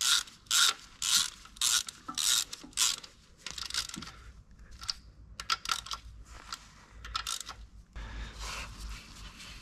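Hand ratchet wrench being worked on the engine, clicking in short bursts about twice a second for the first few seconds, then slower scattered clicks and tool clatter.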